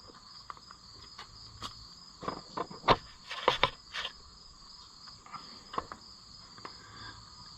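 Scattered light clicks and knocks of hand tools and metal parts while a tractor's starter cable is worked into place, over a steady high trill of crickets.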